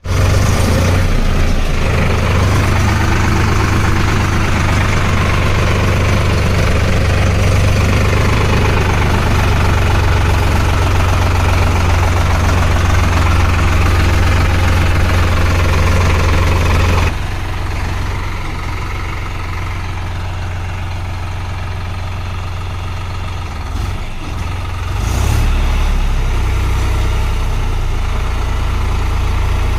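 Solis 5015 tractor's diesel engine running with a steady low hum. The sound drops suddenly about seventeen seconds in and picks up again around twenty-five seconds.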